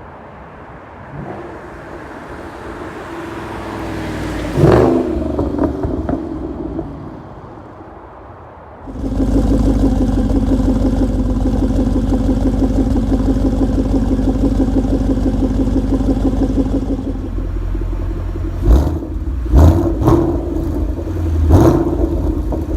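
2013 Ford Mustang GT's 5.0-litre V8 through a Corsa Extreme axle-back exhaust, revving: it builds to a sharp rev about five seconds in, then a loud steady drone is held for about eight seconds, followed by several quick throttle blips near the end.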